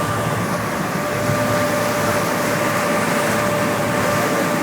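A vehicle engine running steadily: an even rumble with a steady whine held at one pitch.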